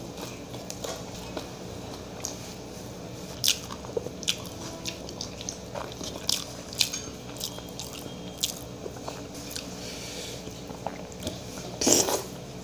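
Close-up eating sounds of a person chewing with the mouth open, with irregular wet smacks and clicks and a louder bout near the end.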